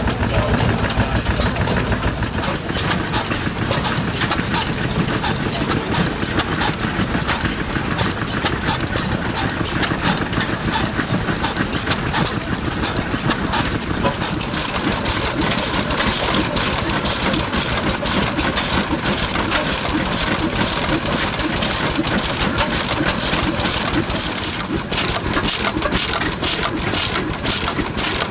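Old engines running, with a stream of sharp, rapid clicks that grows denser and more regular about halfway through.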